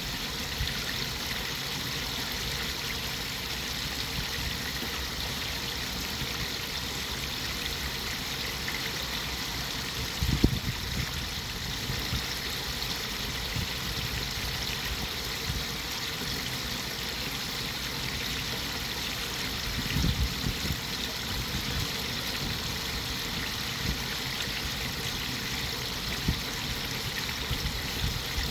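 Flowing water running steadily in an even rush, with brief low thumps about ten and twenty seconds in.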